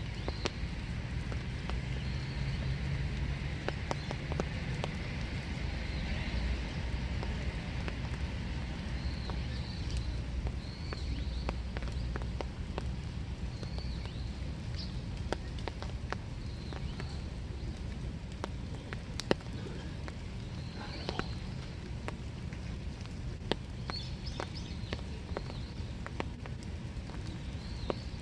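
Steady winter rain, with single drops tapping close by all through. Short high bird chirps come now and then over it, and a low rumble runs underneath.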